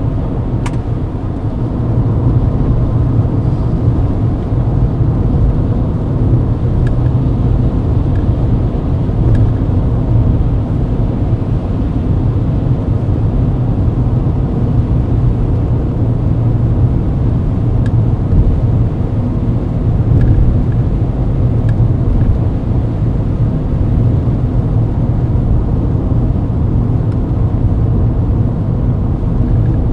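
Mercedes-Benz W124 cruising at highway speed: a steady rumble of engine and tyre noise on the road, a little louder from about two seconds in, with a few faint clicks.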